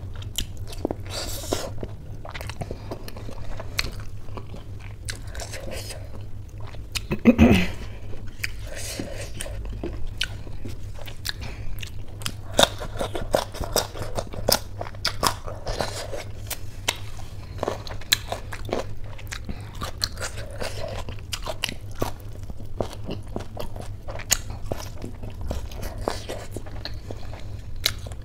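Close-miked chewing and crunching by one person eating khichdi and crisp fried snacks by hand, with many small wet and crisp mouth clicks. About seven seconds in comes one louder, brief sound from the eater that falls in pitch.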